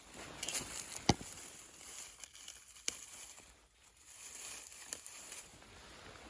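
Rustling and crackling in dry undergrowth, with two sharp snaps, one about a second in and one near three seconds.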